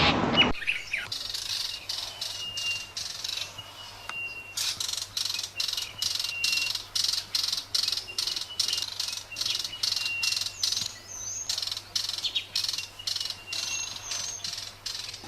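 Birds chirping: quick high chirps repeated about twice a second, with short thin whistles every second or so.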